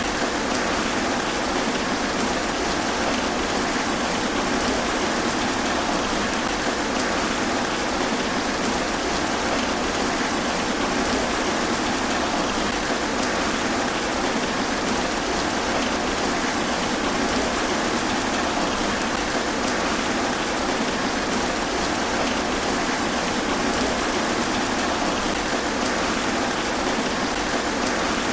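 Rain falling through trees: a steady, even hiss with the fine patter of individual drops on leaves.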